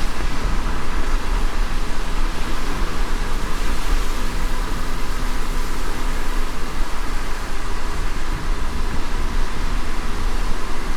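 Steady road noise of a moving car: a deep, constant rumble with a faint even hum on top.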